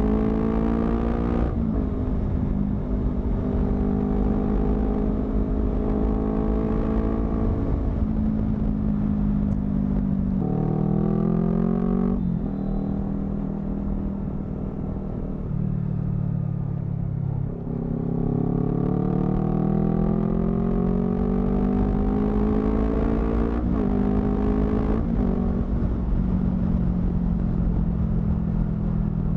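Honda CBR250RR motorcycle with a modified exhaust, ridden and heard from the rider's position. The engine note climbs in long rising runs under acceleration and drops sharply at each gear change or roll-off, about three times, with stretches of steady cruising in between.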